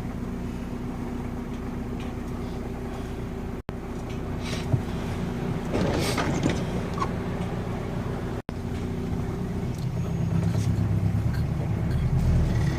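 Car engine running with a steady hum, giving way to a louder low rumble over the last few seconds.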